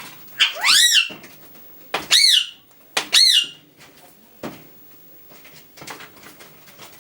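Rose-ringed parakeet squawking three times, each call a loud harsh screech that rises and falls in pitch, about a second apart, with scattered small clicks and taps around them.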